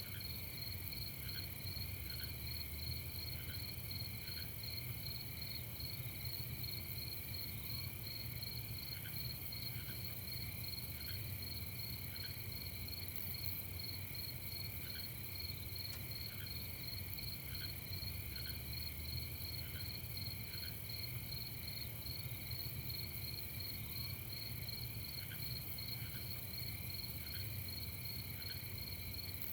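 Crickets chirping in a steady, rapid, unbroken pulse, with short separate chirps every second or so. A steady low rumble runs underneath.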